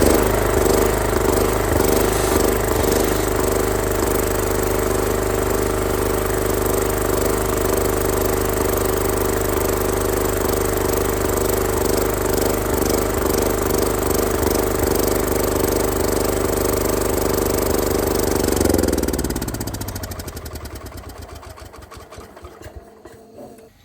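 Ford LGT 165 garden tractor engine running steadily at idle, running again after its ignition points were filed and gapped. About three-quarters of the way through it is switched off and winds down, slowing and fading away to quiet.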